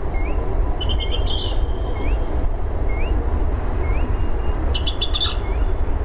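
Wild birds calling: one repeats a short rising note about once a second, and another gives two brief chattering bursts, over a steady low rumble.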